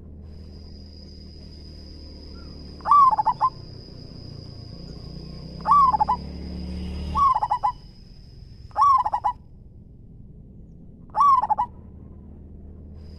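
Zebra dove (perkutut) cooing: five short, loud stuttering coos, each a quick run of notes, repeated every two to three seconds.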